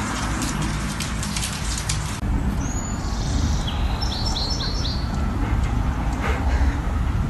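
A run of rapid clicks and taps for about two seconds, then a cut to small birds chirping in a short series of quick high notes over a steady low rumble.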